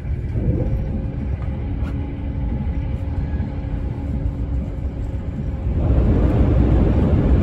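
Running noise of a passenger train heard from inside the carriage: a steady low rumble with a faint hum. About six seconds in it turns louder and rougher as the train enters a tunnel.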